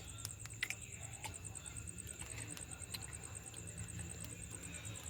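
Crickets chirping steadily, a fast, even high-pitched pulsing, with a few faint clicks and a low hum underneath.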